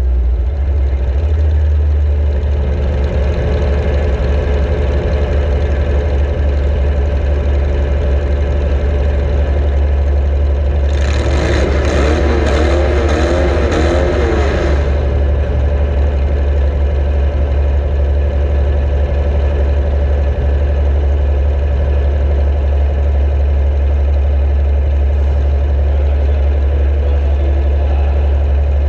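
Demolition derby compact car engine running under a heavy, steady low rumble. About eleven seconds in, a louder wavering burst lasts some four seconds, its pitch swinging up and down, before the steady running resumes.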